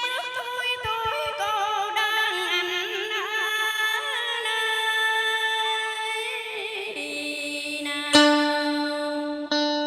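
A sung Vietnamese tân cổ phrase: a voice drawing out long notes with heavy vibrato and melodic turns over instrumental backing. It gives way to the instruments alone about two-thirds through, and a bright plucked note sounds near the end.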